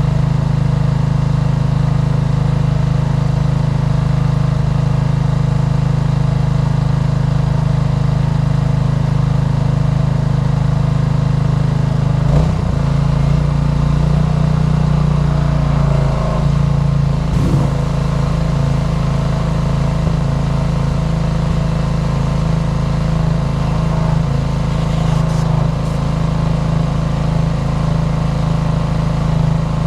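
Petrol pressure washer's engine running steadily, its note shifting briefly about twelve seconds in.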